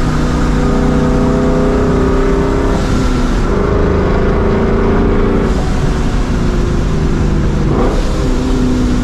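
Supercharged Ford 4.6-litre V8 of a New Edge Mustang GT with a Vortech centrifugal supercharger and Borla catback exhaust, cruising through gear changes, its note holding steady pitches and stepping to new ones several times. There is a brief hiss about three seconds in, likely the blow-off valve venting boost.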